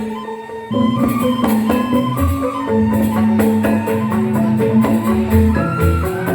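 Balinese joged bumbung gamelan playing, its bamboo xylophones struck in quick, busy interlocking patterns over a held low note and deep thuds. The playing picks up again after a brief lull just under a second in.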